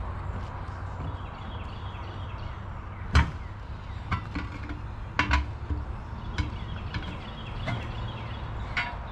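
Several sharp knocks and clatters, the loudest about three seconds in and a quick cluster a couple of seconds later, over a steady low hum.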